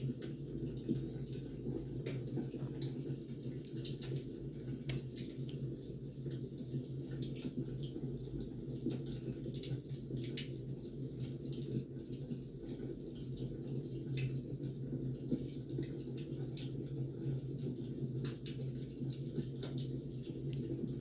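Firewood burning: irregular sharp crackles and pops over a steady low rumble.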